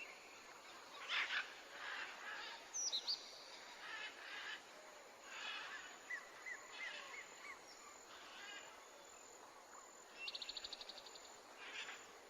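Wild birds calling over a faint, steady rush of flowing water: a run of short rising whistles about six seconds in, and a rapid trill near the end.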